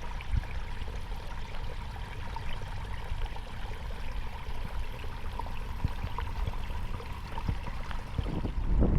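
Heavy rain: steady rushing water with many small drops pattering, swelling louder near the end.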